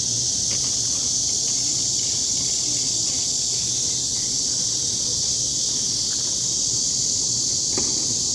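Insects buzzing in a steady, high-pitched chorus that does not let up.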